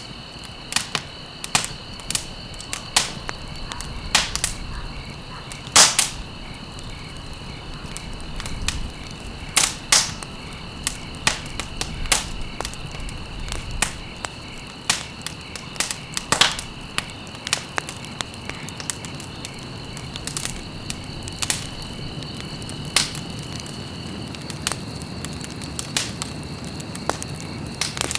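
Wood fire burning in a fireplace, crackling with frequent irregular sharp pops, a few much louder than the rest, over a steady low rush. A faint steady high-pitched tone sits underneath.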